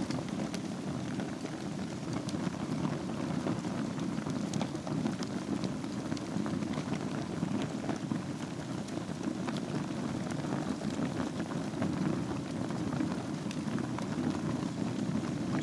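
Wood fire burning in a fireplace: steady low rush of the flames with frequent small crackles and pops.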